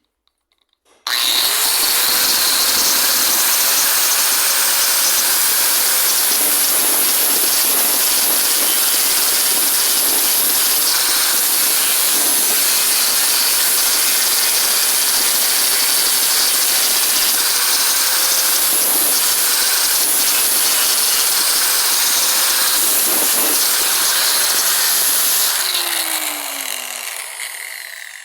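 Electric power tool motor switched on, running at a steady high speed, then switched off and winding down near the end with a falling pitch.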